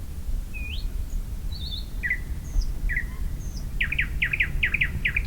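Songbirds singing: scattered short whistled chirps and a quick upward sweep, then a rapid run of about eight notes near the end, over a low steady background rumble.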